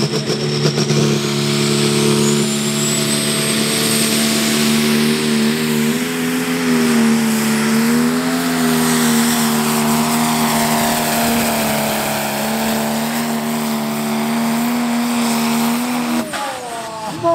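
Pro Stock pulling tractor's single-turbo diesel engine held at full throttle under the load of the sled, steady with slight swells, with a high turbo whistle rising over the first few seconds. About sixteen seconds in, the engine drops off sharply in pitch and level as the throttle is closed at the end of a full pull.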